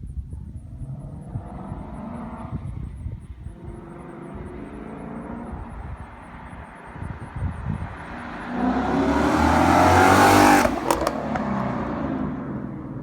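Ford Mustang GT's 5.0-litre V8 through a Corsa Sport cat-back exhaust, accelerating past. The exhaust note builds and climbs in pitch to its loudest about ten seconds in, then drops in pitch and fades as the car goes by.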